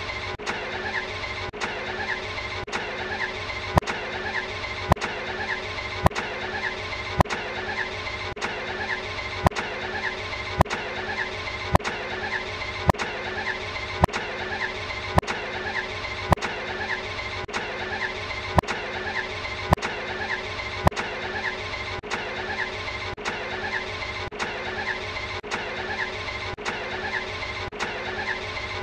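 Ferrari Enzo V12 engine sound, steady and unchanging, cut by sharp clicks about twice a second in a strictly regular pattern.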